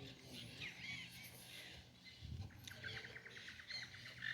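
Small birds chirping, with a fast trill of even notes, about ten a second, starting about two and a half seconds in.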